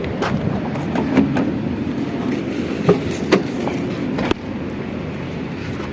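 A few sharp clicks and knocks from handling the car, over steady background noise that drops a little about four seconds in.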